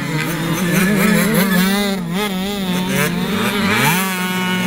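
Several 65 cc two-stroke motocross bikes racing, their engines revving up and down with overlapping rising and falling pitches; one bike revs up sharply about three and a half seconds in.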